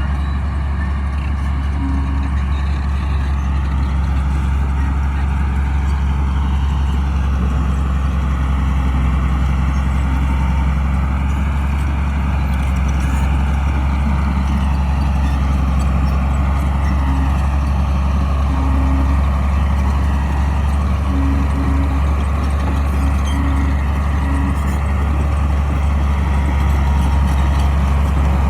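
Crawler bulldozer's heavy diesel engine running steadily at an even, low pitch.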